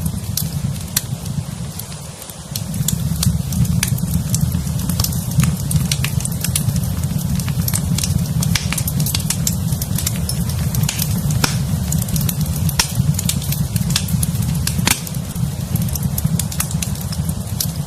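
Wood fire in a fireplace crackling, with frequent sharp pops and snaps over a steady low rumble of the flames that dips briefly about two seconds in.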